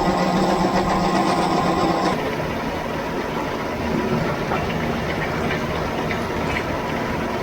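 Combine harvester running while cutting wheat, a steady machine drone. About two seconds in the sound changes abruptly from an even hum to a rougher, noisier running sound.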